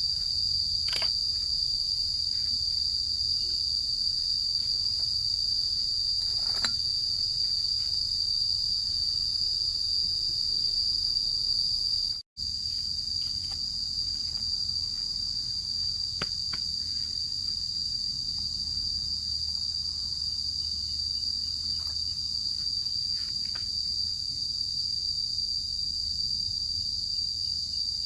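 Steady, high-pitched chorus of insects such as crickets, with a few faint clicks. It cuts out completely for a moment about twelve seconds in, then resumes unchanged.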